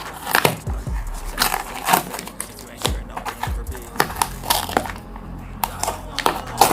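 Cardboard box and plastic packaging being handled and opened: crinkling and rustling with many sharp taps and clicks, over background music.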